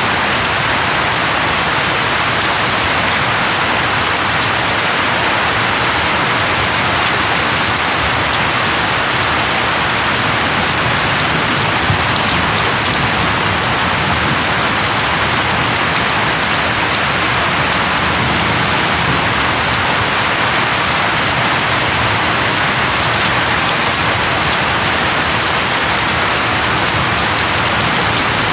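Steady rain falling, an even hiss of many raindrops on a surface.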